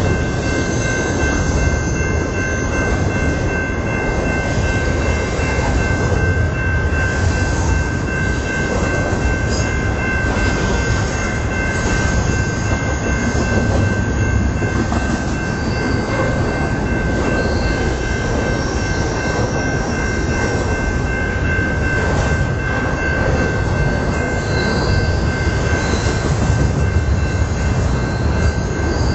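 Double-stack intermodal container cars rolling past close by: a loud, steady rumble of steel wheels on rail, with a thin high-pitched squeal held throughout.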